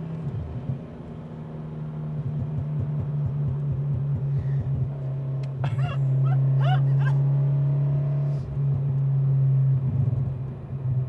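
2019 Subaru BRZ's 2.0-litre flat-four engine running at a steady speed, heard from inside the cabin, with a scatter of exhaust crackles and pops from its crackles-and-pops tune in the first few seconds. The engine grows louder toward the middle.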